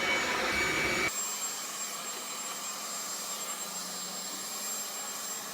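Leaf blower running with a steady high whine; about a second in the sound cuts abruptly to a quieter, steady airy rush.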